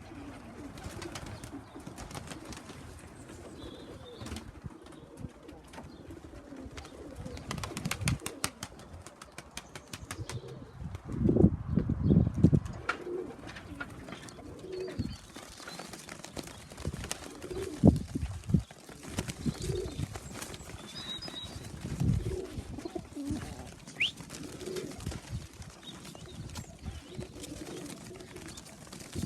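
Pigeons cooing at the loft, with a few louder bursts of wing flapping about a third of the way in and again later.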